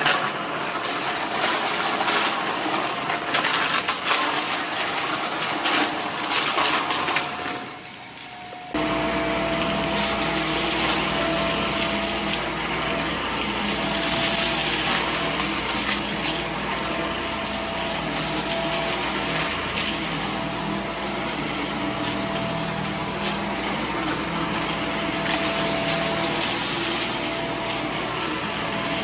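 Vacuum cleaner running over debris, with crackling and rattling as it picks up the mess. About eight seconds in it goes quiet briefly. Then a vacuum motor starts abruptly and runs steadily with a humming whine.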